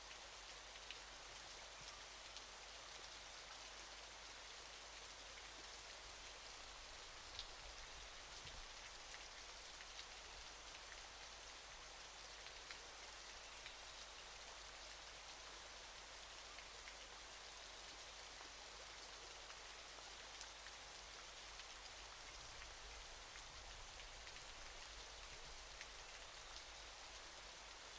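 Faint, steady hiss of falling water, with many small drop-like ticks scattered through it.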